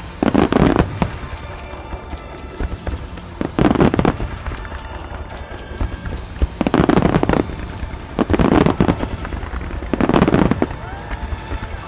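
Starmine fireworks display: volleys of aerial shells bursting in five loud clusters of bangs and crackling, about two to three seconds apart.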